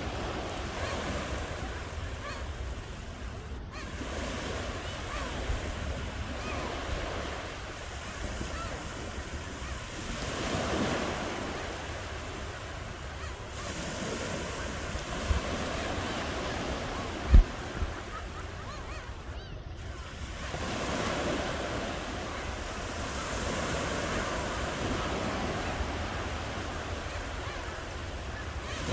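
Sea waves breaking and washing ashore, the surf swelling and ebbing several times, with wind rumbling on the microphone. A brief low thump about two-thirds of the way through.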